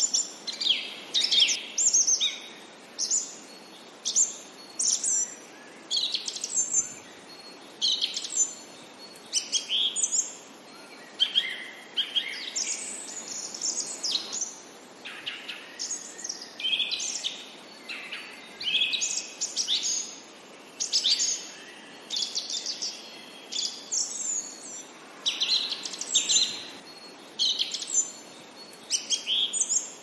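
Songbirds chirping and singing: short, high calls and song phrases follow one another, one or two each second, over a faint steady hiss.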